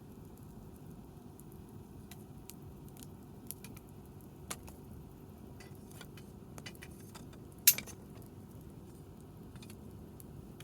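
Wood campfire crackling, with scattered sharp pops and one loud crack about three quarters of the way through, over a steady low rumble.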